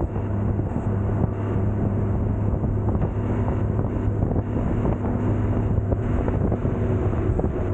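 Wind rushing over the camera microphone on a moving motorcycle, over the steady drone of a 2010 Kawasaki Concours 14's inline-four engine.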